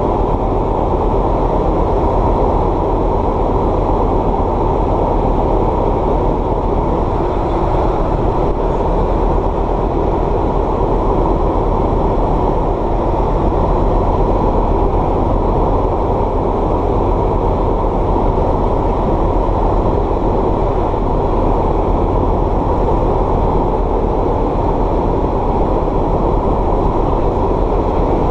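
Steady drone of a light aircraft's engine heard from inside the cabin in flight, even and unchanging in level.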